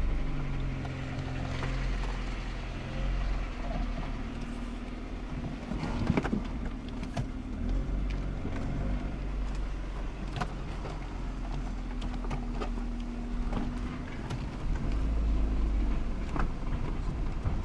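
Car running, most likely on a test drive after suspension and steering repairs, with a steady engine note, road noise and several short sharp knocks scattered throughout.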